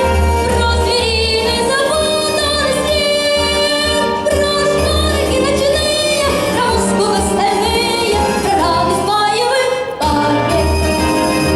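A child soloist sings with vibrato over an instrumental accompaniment that has a steady, pulsing bass. About ten seconds in the voice stops and the accompaniment plays on alone.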